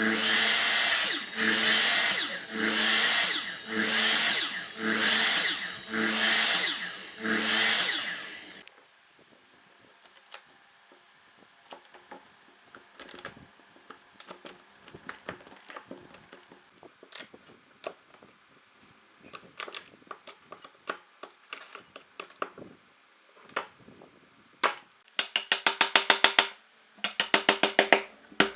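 A power tool run in seven pulses about a second apart, each with a steady hum under harsh noise, then scattered light taps and knocks of hand work on wood, then rapid rattling bursts near the end.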